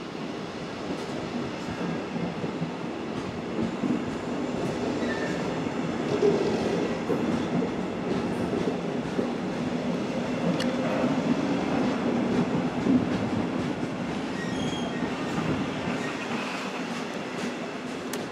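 Red DB Regio double-deck push-pull train pulling in along the platform at low speed, with a steady rumble of wheels on rail and faint clicks. A brief thin squeal comes about fifteen seconds in.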